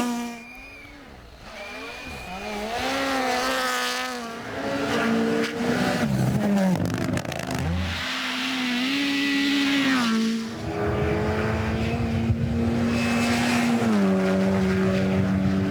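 Rally car engine revving hard, its note climbing and dropping again and again through gear changes, then holding a steady pitch for a few seconds before stepping down near the end.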